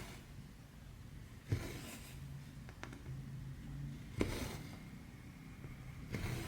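Needle and thread being pulled through cross-stitch fabric: three strokes, each a sharp tick as the needle pierces the cloth followed by a short hiss of thread drawn through, roughly every two to two and a half seconds.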